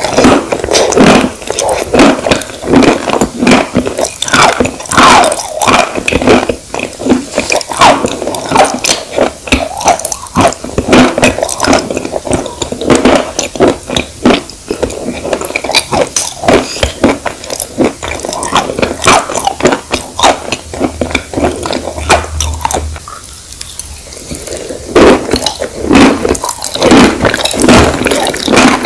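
Close-miked wet chewing of chalk crumbles mixed with creamy paste: a rapid, irregular run of crunches, crackles and squelches that eases off briefly about 23 seconds in.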